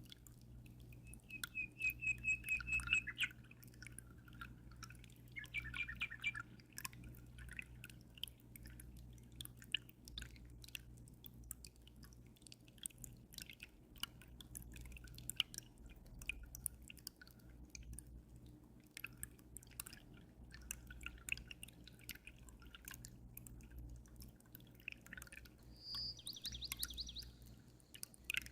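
Water dripping and trickling as a constant patter of small drops, over a low steady hum. Small birds chirp in quick trills three times: early on, again a few seconds later, and a higher one near the end.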